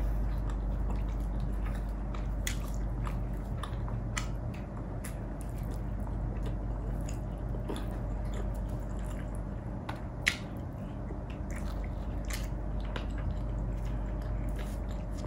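Close-miked chewing and wet, squishy mouth sounds of someone eating, with scattered small clicks and one sharper click about ten seconds in, over a steady low hum.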